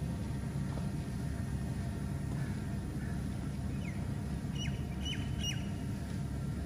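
Steady low outdoor rumble, with a quick run of four or so short, sharp bird calls from about four seconds in.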